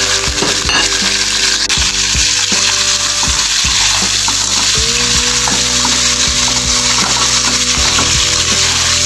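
Whole blue swimmer crabs sizzling steadily in hot oil with onion and garlic in a wok, while a metal spatula stirs them around with occasional scrapes and knocks against the pan.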